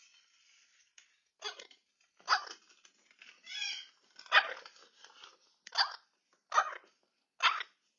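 Barking: about six short, sharp barks roughly a second apart, with a longer higher call between the second and third.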